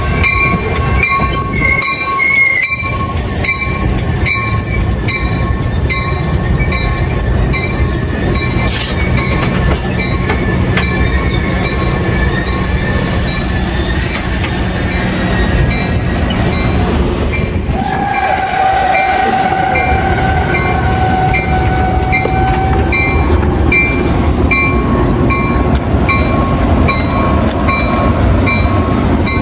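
Metra commuter train on the BNSF line arriving at a station, running steadily with a grade-crossing bell dinging in an even rhythm. A steady pitched tone sounds for about five seconds a little past the middle.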